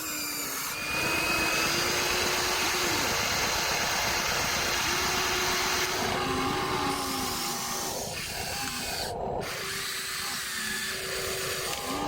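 Small electric motors of Huina RC toy excavators whining as they work, the pitch dipping and rising several times as the motors change load or start and stop, over a steady hiss.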